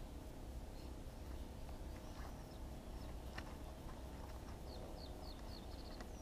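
Faint high bird chirps over a steady low wind rumble on the microphone: scattered single notes, then a quick run of about six short falling notes near the end.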